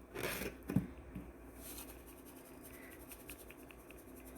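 Soft kitchen handling noises: a few brief rustling scrapes in the first second and a half, then only a faint low background with occasional small ticks.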